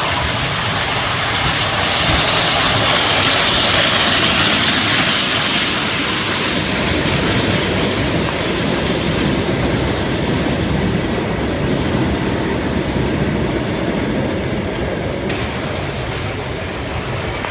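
Railway cars rolling along the track with no locomotive, wheels rumbling and clattering over the rails. The noise swells to its loudest a few seconds in, then eases slightly.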